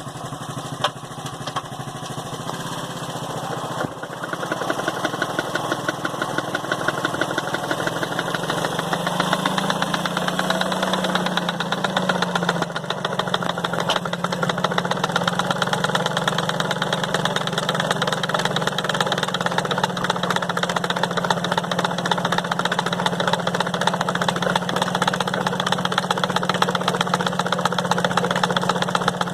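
Motorcycle engine running to drive a village water pump, a rapid steady pulsing beat. It gets louder about four seconds in, rises in pitch briefly a few seconds later, then holds steady.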